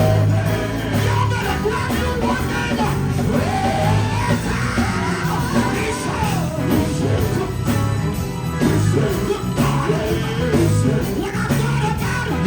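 Live gospel band playing, with bass and drums keeping a steady pulse, while a singer shouts and sings over it.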